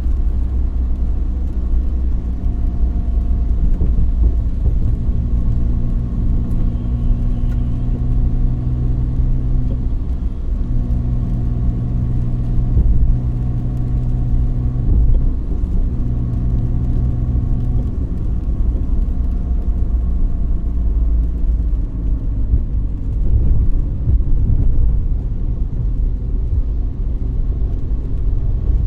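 Car driving on a city road: a steady low road rumble, with an engine hum holding one pitch through the first half or so, broken briefly twice.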